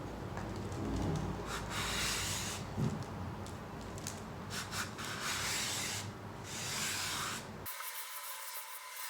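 Sandpaper on a 12-inch radius sanding block rubbed back and forth along a bare guitar fretboard, truing it to a 12-inch radius: a rasping scrape in several long strokes, which stops abruptly near the end.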